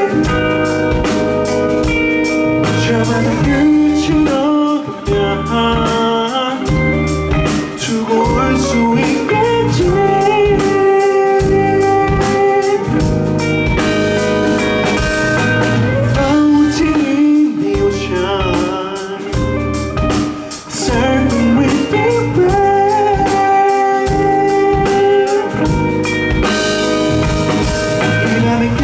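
Live band playing a song: electric guitar and drum kit with a steady beat, and a voice singing.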